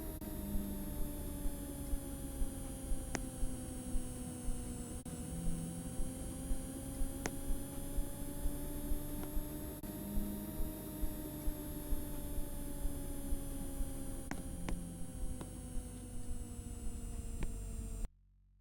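Washing machine running: a motor whine that drifts slowly up and down in pitch, with regular knocks about twice a second. It cuts off suddenly near the end.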